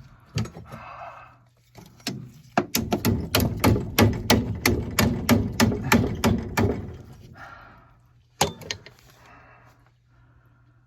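A fast, even run of sharp clicks, about five a second, for about four seconds, then two more clicks a little later: hand work on the water pipes.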